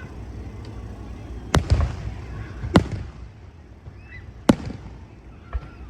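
Aerial fireworks going off: three sharp booms about a second or more apart, a weaker pop near the end, and a low rumble between them.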